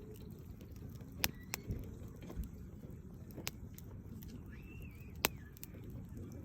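Wood fire crackling, with a handful of sharp pops from the burning logs, the loudest about a second in and again near the end, over a low steady rumble.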